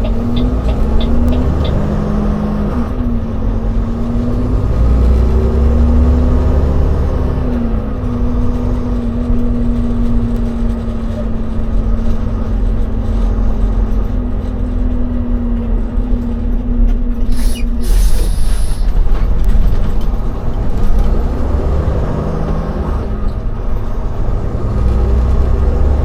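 Semi-truck tractor's diesel engine running under way, a steady drone whose pitch shifts slightly now and then, over a heavy low rumble. A brief hiss cuts in about two-thirds of the way through.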